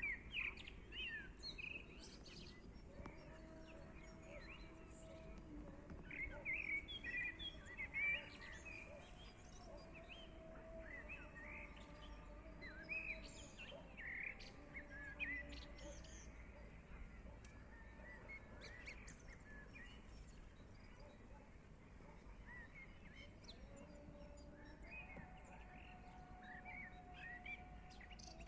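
Many short bird chirps and calls over a steady background hiss, with a faint held lower tone that steps up and down in pitch now and then.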